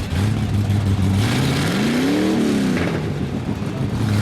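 Mud truck engine running, revving up once and back down about two seconds in, with a rush of noise while the revs are high.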